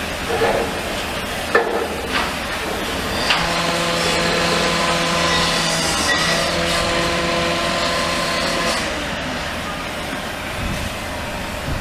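Heavy diesel machinery running, with a few sharp knocks in the first couple of seconds, then a steady pitched whine for about five seconds, briefly broken midway, before it drops back to the engine's running rumble.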